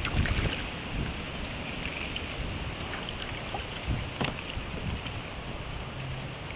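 Wind buffeting the microphone over a steady wash of river water around a kayak, with a few light knocks about four seconds in.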